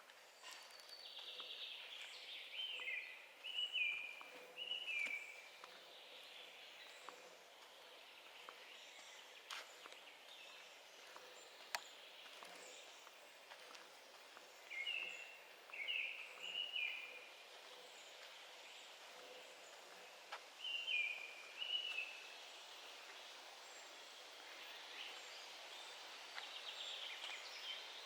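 Forest ambience: a songbird sings a short phrase of a few quick notes about four times, several seconds apart, over a faint steady hiss with a few faint ticks.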